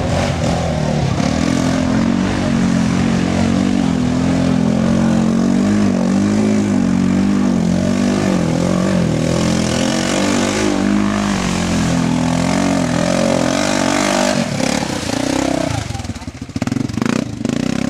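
4x4 ATV engine running under way, its note wavering up and down with the throttle. The engine eases off about fifteen seconds in, and the sound turns quieter and uneven near the end.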